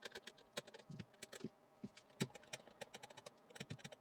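Faint, irregular small clicks and scratches of scraping caked epoxy residue off a rotary-tool (Dremel) bit by hand, with the tool switched off.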